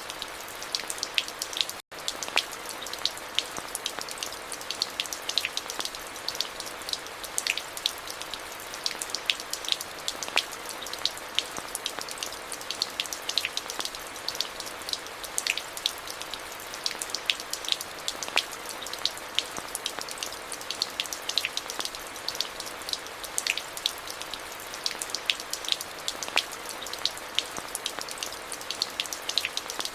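Steady rain with many distinct close drops ticking on hard surfaces over a constant hiss of falling rain. A split-second gap of silence cuts in about two seconds in.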